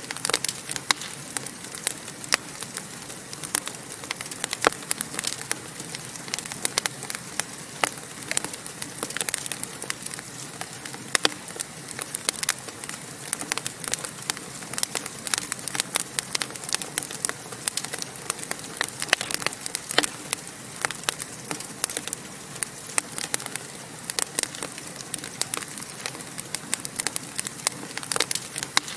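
Wood fire burning in a fireplace: a steady hiss with frequent irregular sharp crackles and pops.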